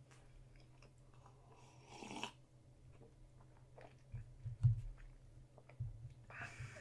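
Quiet chewing and mouth noises of someone eating a sandwich. A short breathy rush comes about two seconds in, and a dull knock about halfway through, as a plastic cup is set down on the table.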